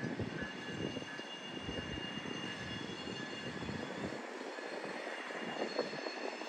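Train rolling by on the rails: a steady hiss of wheels on track with faint, thin high squealing tones, the deeper rumble dropping away about four seconds in.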